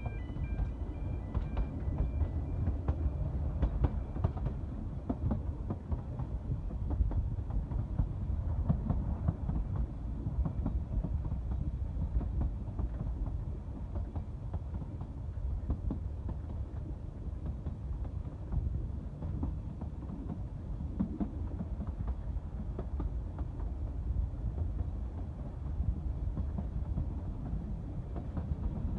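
Narrow-gauge railway carriage running along the track: a steady low rumble with irregular clicks and knocks from the wheels on the rails.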